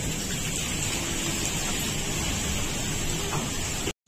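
Heavy rain pouring in a steady hiss, with wind rumbling low on the microphone. The sound cuts out briefly near the end.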